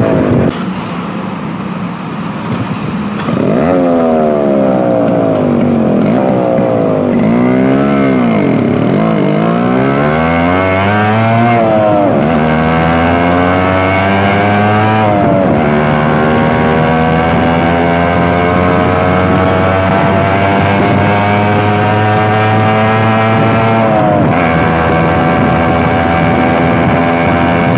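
Yamaha RX 135 two-stroke single-cylinder motorcycle ridden inside a tunnel. It is quieter for the first few seconds, then revs up and down several times, then climbs steadily in pitch through the gears, with a short dip at each of three gear changes.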